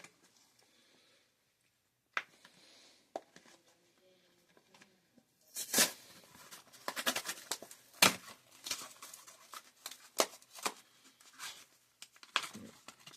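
A Hot Wheels card-and-plastic blister package being torn open, hard to get into. Faint rustling at first, then from about five and a half seconds in a run of sharp cracks and rips as the cardboard and plastic give way.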